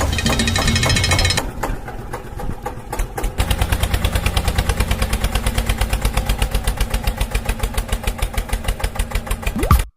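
Tractor engine chugging in an even beat of about eight pulses a second, after a louder, busier stretch in the first second and a half; it cuts off just before the end.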